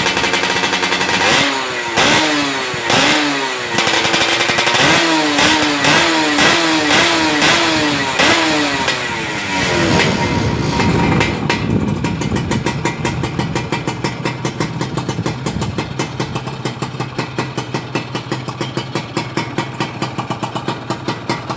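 Yamaha F1ZR two-stroke engine through a KBRS racing exhaust, revved up and let fall in about eight quick blips, then dropping back about halfway through to a fast, pulsing idle.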